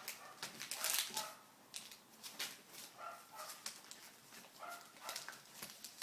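Sheet paper crinkling and creasing as a paper airplane's folded wings are handled, a run of sharp crackles that is loudest about a second in. Several times there are short high-pitched animal calls, which sound like whines.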